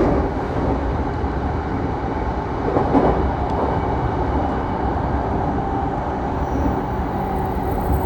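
Saikyō Line commuter train running between stations: a steady rumble of wheels on rail, with one brief louder bump about three seconds in.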